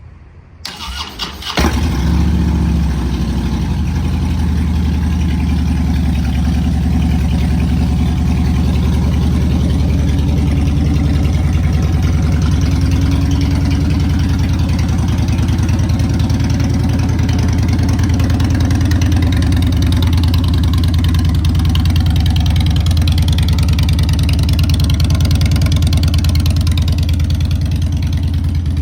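2009 Harley-Davidson Fat Boy's Twin Cam 96 V-twin cold-started: the starter cranks briefly, the engine catches within about two seconds, then idles steadily through aftermarket Vance & Hines exhaust pipes.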